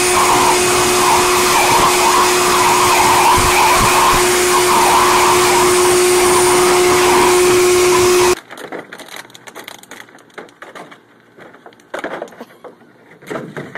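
An electric blower, likely a pet blow dryer, running steadily with a constant hum over the rush of air. It cuts off suddenly about eight seconds in, leaving quieter scattered knocks and rustles.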